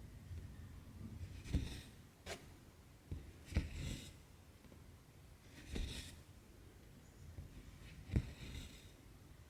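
Cross-stitch needle pushed through 18-count Aida cloth and cotton thread drawn through with a short swish, about every two seconds, four times, with one sharp click a little after the first stroke.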